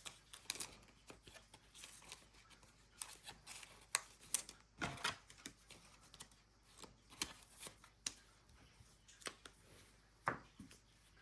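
Football trading cards being handled and flipped through one by one: scattered light clicks and rustles of card stock, at irregular intervals.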